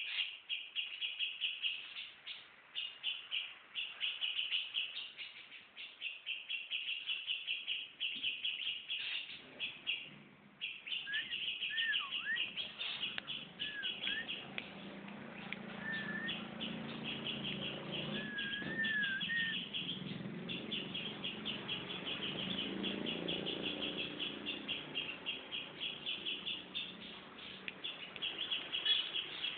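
Songbird chirping in rapid, nearly continuous runs of high notes, broken by short pauses. A few lower whistled notes slide up and down in the middle. A low hum sits under the second half.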